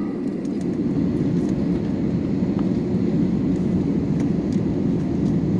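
Steady low rumble in the passenger cabin of an Airbus A321-200 taxiing with its engines at idle.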